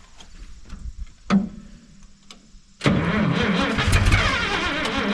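A single sharp clunk about a second and a half in. About three seconds in, the starter kicks in and cranks the Minneapolis Moline G900 LP tractor's engine over steadily without it catching, a no-start that the owner then suspects is a fuel problem.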